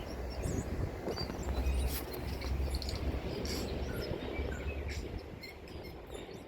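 Outdoor ambience: birds chirping over a steady low rumble, fading out near the end.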